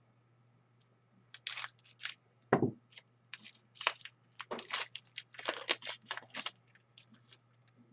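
A trading-card pack's wrapper being torn open and crinkled: a run of short crackling rustles, with one dull thump about two and a half seconds in.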